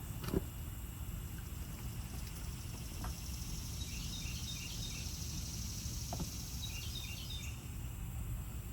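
Outdoor background with a steady low rumble, a bird chirping in short runs twice, and a few light clicks or knocks. There is no steady machine tone, so no vacuum pump is running.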